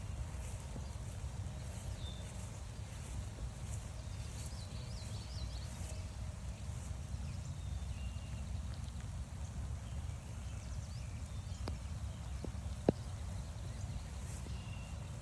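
Footsteps on a wet forest trail under a steady low rumble, with faint songbird chirps here and there. One sharp tap about thirteen seconds in.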